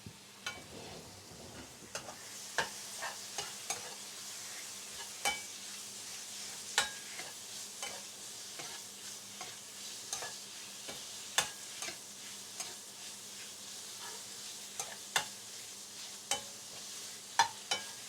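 Chicken pieces frying in Thai green curry paste, a steady sizzle, with irregular sharp clicks of a utensil stirring against the pan.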